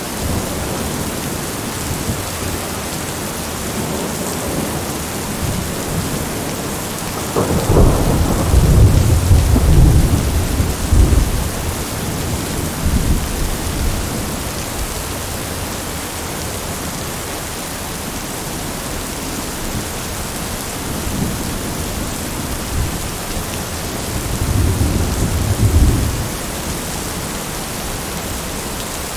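Steady rain with thunder rolling through it: a loud, low rumble lasting about four seconds begins about a quarter of the way in, and a second, shorter roll comes near the end.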